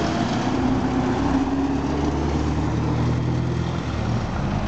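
A car engine running steadily at low revs as a car moves slowly past, a low hum with a slight rise in pitch early on.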